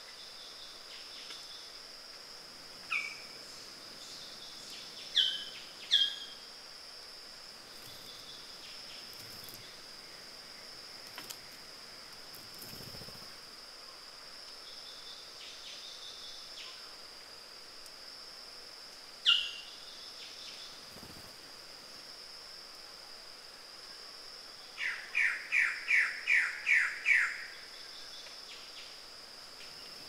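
Steady high drone of forest insects, with a few short, sharp bird calls that drop in pitch. Near the end comes a quick run of about seven loud repeated notes.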